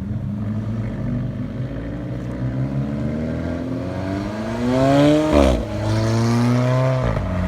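Car engine accelerating hard. Its pitch climbs steadily, falls sharply about five and a half seconds in, climbs again, and falls once more near seven seconds, the pattern of upshifts through the gears.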